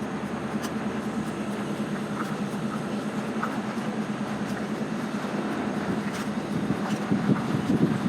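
Lorry's diesel engine running with a steady hum, growing a little louder and rougher near the end.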